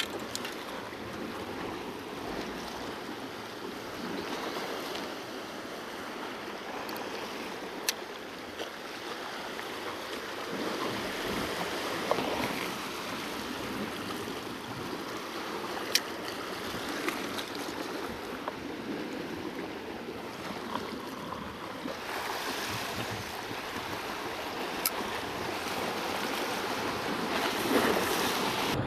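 Sea waves washing against a rocky shoreline, a steady surging wash, with a few sharp clicks scattered through it.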